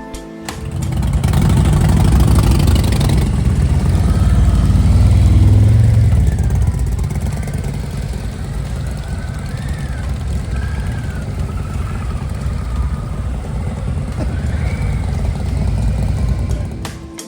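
Harley-Davidson motorcycle engines running, swelling up loud in the first few seconds and then carrying on steadily a little quieter.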